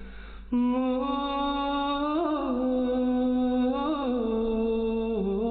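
A man singing without accompaniment: a quick breath, then one long held note drawn out with two small wavering turns in the pitch.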